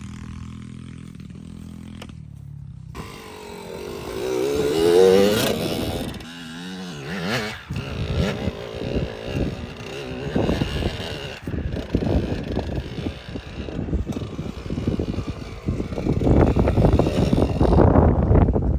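Dirt bike engine revving, its pitch rising and falling a few seconds in, then running unevenly under throttle and getting louder near the end.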